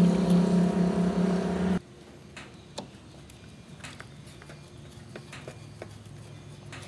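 A motor drones steadily at an even pitch, then cuts off abruptly about two seconds in. After that, only a few faint light clicks are heard.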